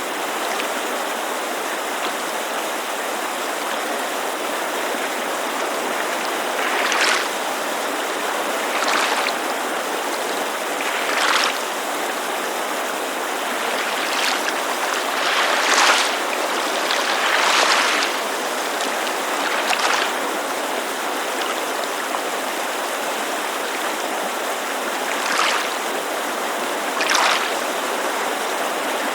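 Steady rushing of a mountain creek under small waves lapping against a lakeshore. From about seven seconds in, the laps come as brief splashes every second or two at an irregular pace.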